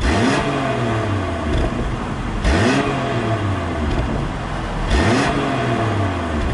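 BMW Z4 M40i's turbocharged 3.0-litre inline-six, with an aftermarket Brillante valved exhaust, revved three times about two and a half seconds apart. Each rev climbs sharply in pitch and falls back.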